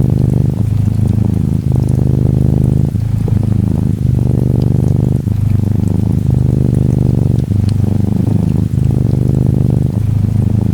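Norwegian Forest Cat kitten purring steadily and close up, a rapid low rumble that breaks briefly about every second as the kitten switches between breathing in and out. Faint patter of gentle rain underneath.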